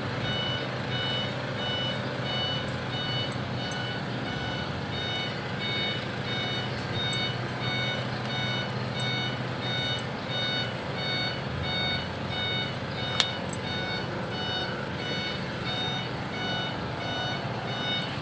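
Truck's backup horn (reversing alarm) beeping steadily, about once a second, now working again after the reverse switch was reconnected. A single sharp click about 13 seconds in.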